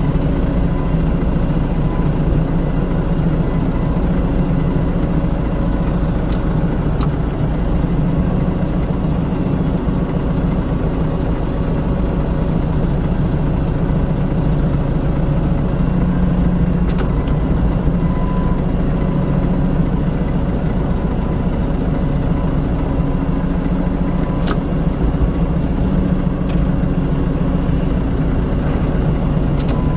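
Forklift engine running steadily at a constant low speed, with a few sharp metallic clicks now and then.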